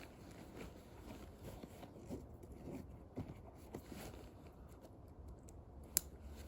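Wood fire in a fire pit burning softly, with small irregular crackles and one sharp pop about six seconds in.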